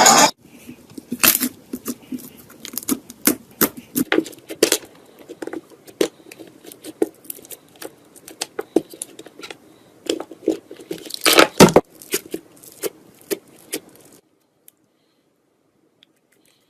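Slime being pressed and pulled by hand, giving irregular sticky clicks and small pops, with a louder cluster a little past halfway; the sounds stop about two seconds before the end.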